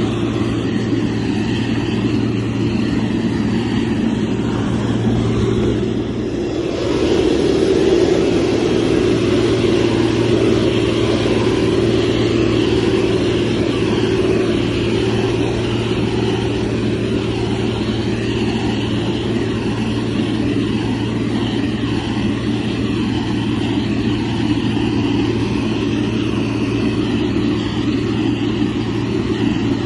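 Motor grader's diesel engine running steadily with a low hum. It gets louder about seven seconds in and stays up.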